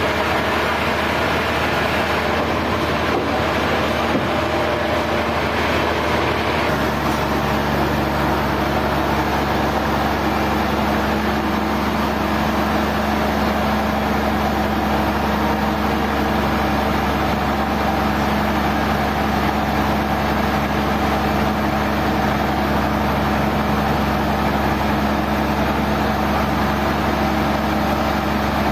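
Sawmill machinery running steadily, a continuous engine-like hum with a constant level. The hum changes abruptly about seven seconds in and then runs on steadily.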